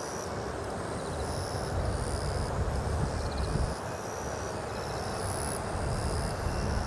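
Distant, steady jet rumble of a Boeing 777-300ER's GE90 engines on landing approach, with a high insect buzz pulsing on and off about once a second.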